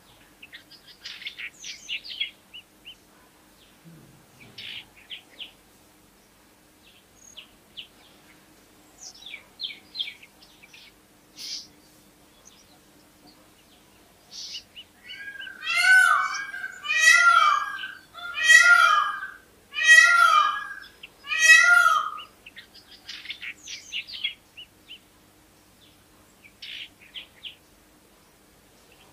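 Birds calling: scattered short, high chirps throughout, and in the middle a run of five loud calls about a second apart, each rising and falling in pitch.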